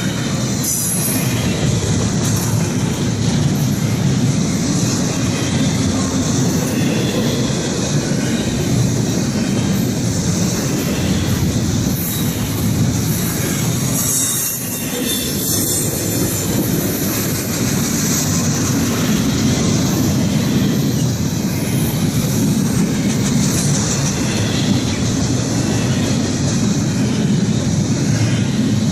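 Norfolk Southern freight train cars rolling past steadily, steel wheels clacking on the rails with a high wheel squeal. The level dips briefly about halfway through.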